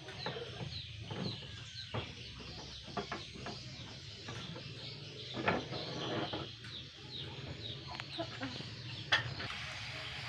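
Chickens clucking, with a high falling chirp repeating about three times a second and a few sharp knocks, the loudest about five and a half and nine seconds in.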